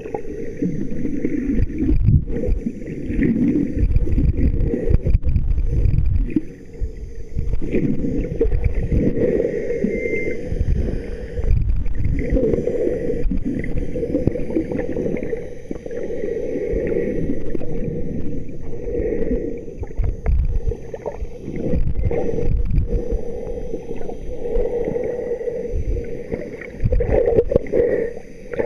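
Water sloshing and gurgling in irregular surges every second or so, low and muffled, with no voices.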